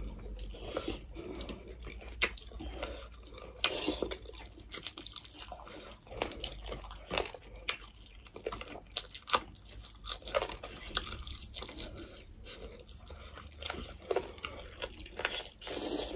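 Close-up eating sounds: chewing and lip-smacking, with irregular soft clicks and squelches as fried chicken and rice are eaten by hand.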